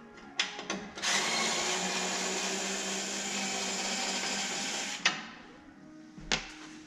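Power drill running steadily for about four seconds, taking off the headlight trim ring, then stopping abruptly. A few sharp clicks and knocks come before and after it.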